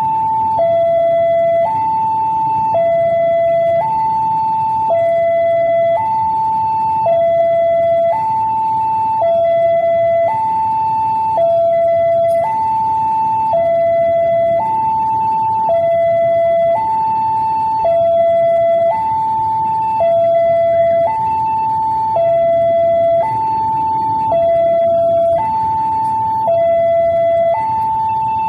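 Railway level-crossing warning alarm sounding steadily, alternating between a high and a lower tone about a second each, the signal that a train is approaching and the crossing is closed. A low rumble runs underneath.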